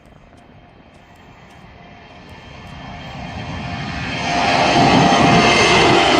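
Boeing C-17A Globemaster III's four Pratt & Whitney PW2000-series turbofans at takeoff power, swelling from faint to loud over about four seconds, then holding loud, with a whine over the roar.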